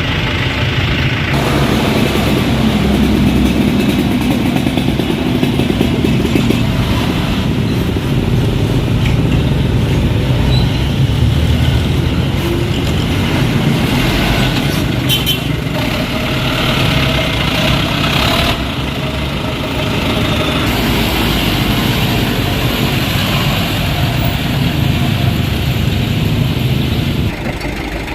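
Dump truck's diesel engine running continuously under load, with abrupt shifts in level and character a few times.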